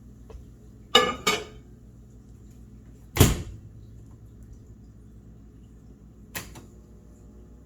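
A 1981 Sears Kenmore microwave oven being worked by hand: two sharp mechanical clicks about a second in, a louder clunk about three seconds in, and a lighter click near the end, over a low steady hum.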